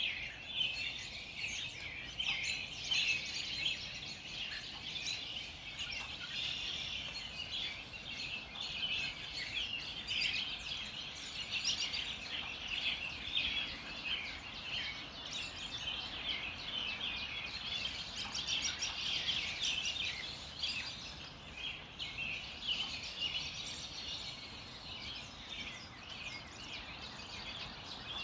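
Dawn chorus: many small songbirds chirping and trilling at once in a dense, continuous, high-pitched chatter.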